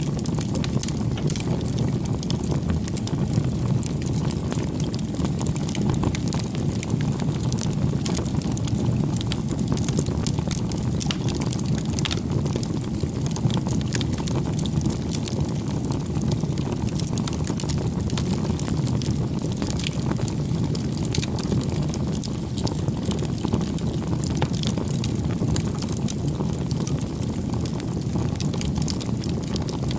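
Wood fire (bonfire) burning: a steady low rush with frequent small crackles and pops throughout.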